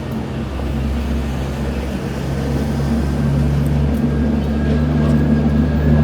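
A motor vehicle's engine running close by, a steady low hum that grows slowly louder and a little higher in pitch.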